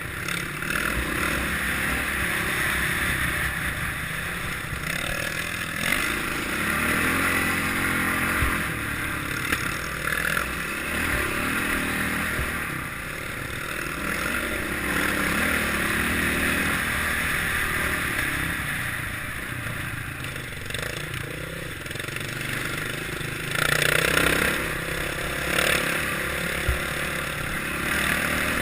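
Kawasaki KLX650R single-cylinder four-stroke enduro motorcycle engine running while riding off-road, its revs repeatedly rising and falling with the throttle. Occasional knocks and clatter come through, with a louder stretch near the end.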